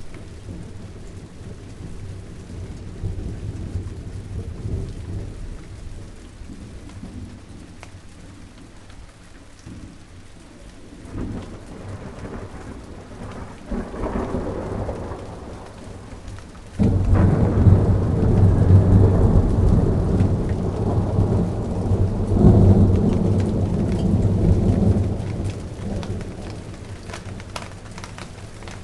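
Steady rain falling on garden plants, with thunder rolling through it. A low rumble swells about a third of the way in, then breaks suddenly much louder a little past halfway. It rolls on for about eight seconds before fading away near the end.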